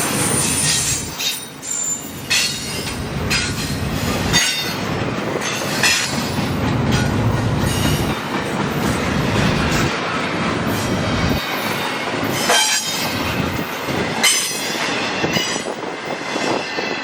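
A train rolling past on the rails, a steady rumble with its wheels squealing in short high bursts and clicking over the track.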